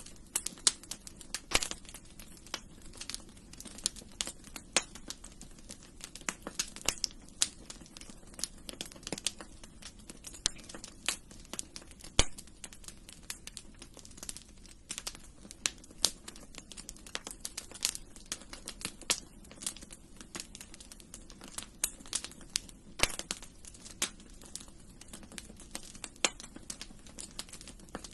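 Fire crackling in a fireplace: irregular sharp pops and snaps, several a second, some louder than the rest, over a steady low background rumble.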